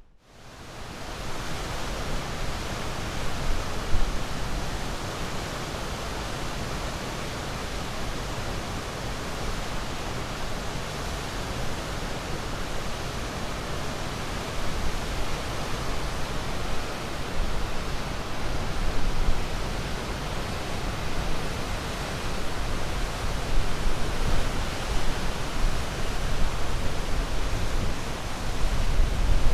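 Steady rush of ocean surf, fading in from near silence over the first second or two and then holding with gentle swells in loudness.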